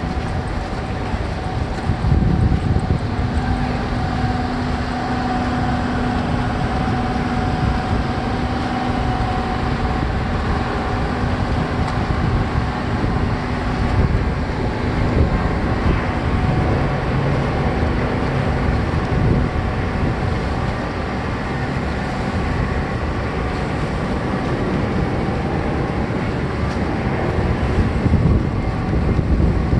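Boat engines running steadily in a canal: a low drone with a held hum through the first two-thirds, over a gusty rumble.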